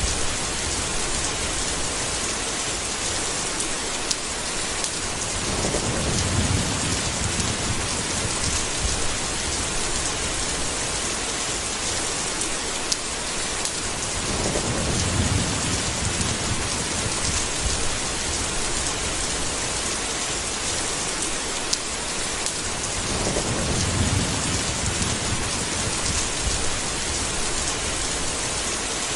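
Steady heavy rain, with three low rolls of thunder about nine seconds apart.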